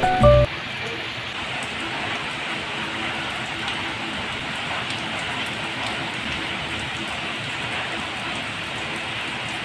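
Steady rain falling, an even hiss with faint scattered drop ticks, starting just after background music cuts off about half a second in.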